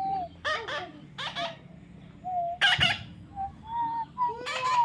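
A parrot calling: several short, harsh squawks, the loudest about three seconds in, between held whistle-like notes.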